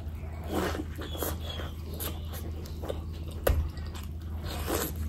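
Close-miked eating: wet biting and chewing of bhatura soaked in mutton curry, with irregular smacking mouth sounds, the sharpest about three and a half seconds in. A steady low hum runs underneath.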